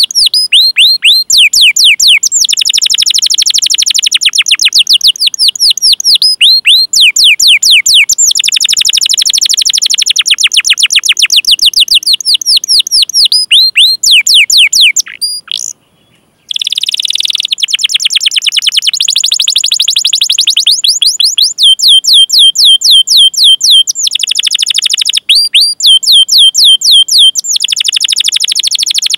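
Domestic canary singing: long runs of rapid, repeated down-slurred 'cuit cuit' notes, with stretches of rolling trill held on one pitch. The song breaks off for a brief silence about halfway through.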